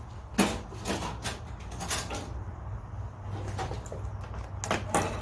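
Hard plastic clamshell packaging being pried and cut open by hand: irregular cracks, scrapes and knocks, the sharpest about half a second in and again near the end.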